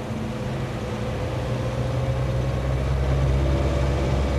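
A vehicle engine running with a steady low hum that grows gradually louder.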